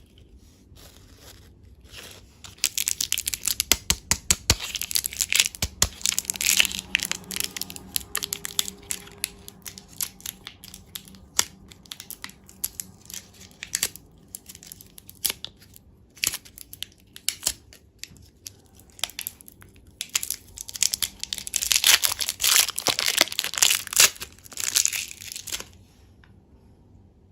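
Crisp, close-miked crackling and crunching of candy and desserts, made up of many fast small cracks. It comes in two dense spells, one a few seconds in and another near the end, with scattered clicks between.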